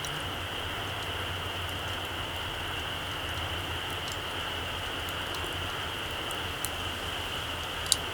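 Small wood fire burning low on its embers, giving a few sharp crackles over a steady hiss; the loudest pop comes near the end.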